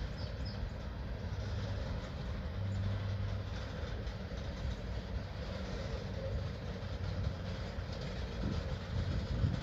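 Tank cars of a freight train rolling past on the rails: a steady low rumble of steel wheels.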